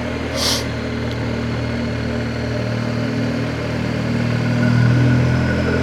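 BMW R1250GS's boxer twin engine running steadily, getting slightly louder about four to five seconds in. A short hiss comes about half a second in.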